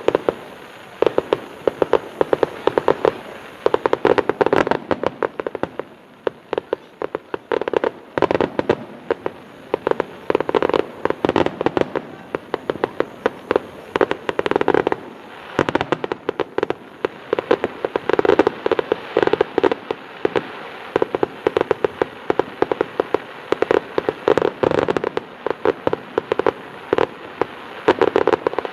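Aerial fireworks going off in rapid, dense succession: many sharp bangs overlapping in clusters every second or two.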